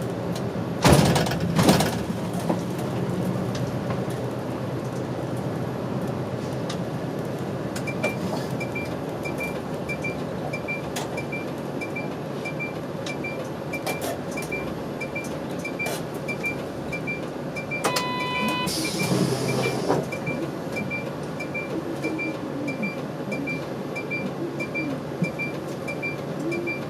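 Diesel route bus running, heard from inside the cabin, with two sharp knocks about a second in. From about a third of the way in, a steady ticking repeats a bit over once a second, typical of a turn-signal relay. About two-thirds through comes a short electronic beep, then a brief burst of air hiss.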